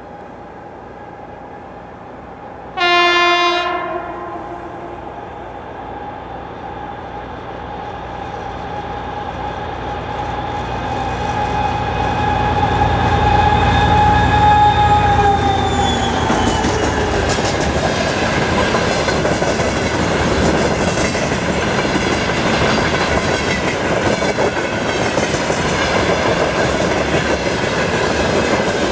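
2M62U twin-section diesel freight locomotive gives one short horn blast about three seconds in. Its two-stroke diesel engines then grow louder as it approaches, and their whine drops in pitch as it passes. Loaded open freight wagons follow, rolling by with a steady clickety-clack of wheels over rail joints.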